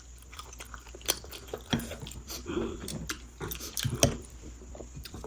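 Close-miked chewing and biting of food in the mouth, with wet mouth clicks about once a second.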